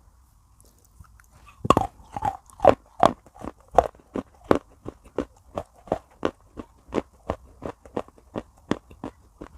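A bite into a piece of baked clay pot about a second and a half in, followed by steady crunchy chewing, about three crunches a second, close to the microphone. The first crunches are the loudest and the chewing grows gradually softer.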